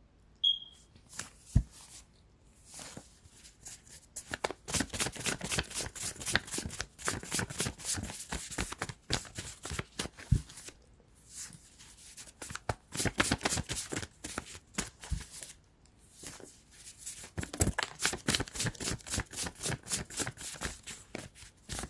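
Tarot cards being shuffled by hand: long runs of rapid papery clicks and riffles, broken by short pauses about halfway through and again a few seconds later.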